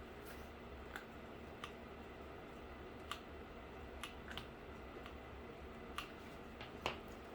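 Light, irregular clicks and taps from handwork on a cardboard case, about seven in all, the sharpest near the end, over a faint steady hum.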